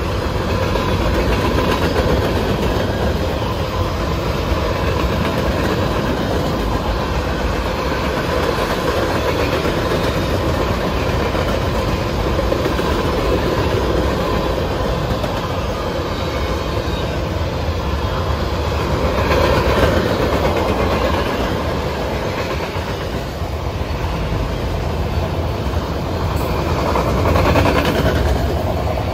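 Freight cars of a Norfolk Southern train rolling past at trackside: a steady rumble of steel wheels on rail, swelling louder about two-thirds of the way in and again near the end.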